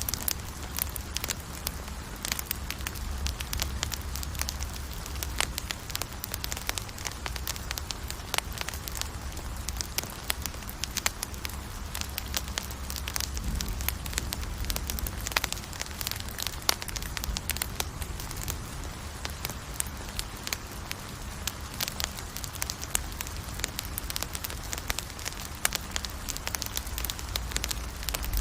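Campfire burning, with dense, irregular crackles and pops over a low, steady rumble of flame.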